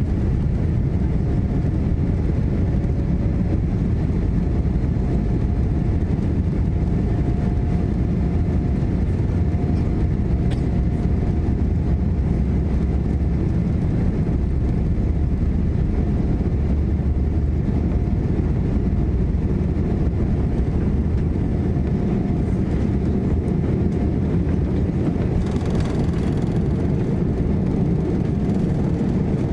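Steady low rumble inside the cabin of a Boeing 787-9 with GE engines as it taxis, with a faint steady whine above the rumble.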